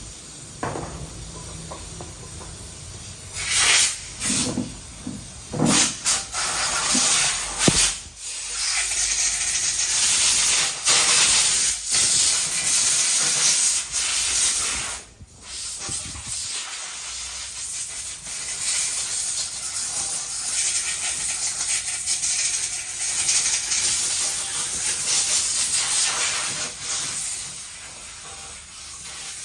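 A high-pressure jet hissing in long on-and-off bursts, with a few short blasts and knocks near the start.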